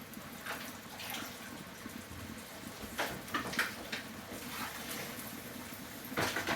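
Kitchen sounds: a steady watery hiss, with a few sharp clinks and clatters about three seconds in and again near the end.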